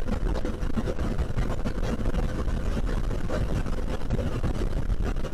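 KTM Duke 390's single-cylinder engine running steadily under a rush of wind noise while the motorcycle is ridden.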